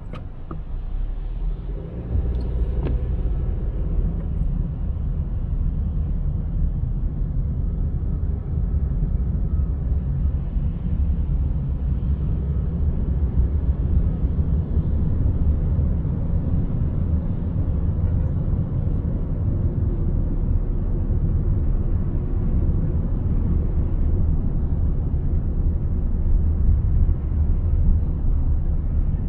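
A car driving: a steady low rumble of road and engine noise, which grows louder about two seconds in.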